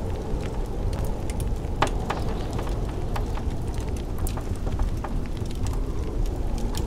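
Wood fire crackling in a fireplace, with irregular sharp pops, the loudest about two seconds in, over a steady low rush of blizzard wind.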